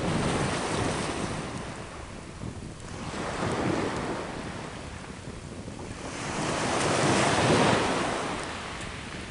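Sea waves breaking on the shore, swelling and fading about every three to four seconds, three surges in all, the last and loudest near the end.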